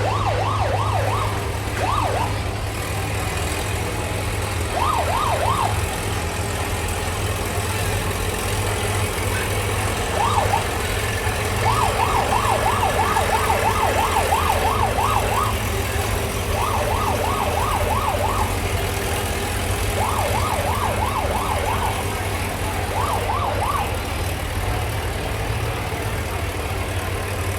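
A siren yelping in a fast up-and-down warble, in a series of short bursts, the longest a few seconds long about halfway through, over a steady low engine hum.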